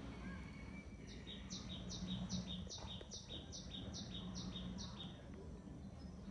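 A small songbird singing a quick series of repeated two-note phrases, a high note then a lower one, about ten in a row over roughly four seconds starting about a second in. A low steady hum runs underneath.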